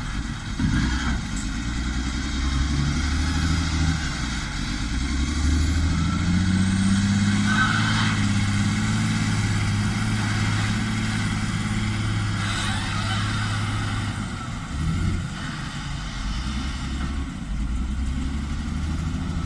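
Heavy diesel engine of a log-loading machine running under load, its pitch rising about six seconds in and settling back near fourteen seconds as it works the logs, with a couple of brief clanks.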